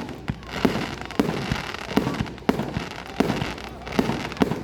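Fireworks going off in quick succession: sharp bangs about twice a second, with crackling between them.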